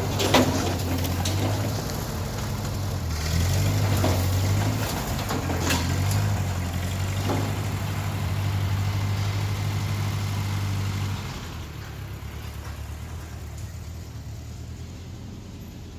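An engine of the machinery moving slab wood runs steadily under load, with several sharp knocks over the first eight seconds. About 11 seconds in, the engine drops back to a quieter, lower run.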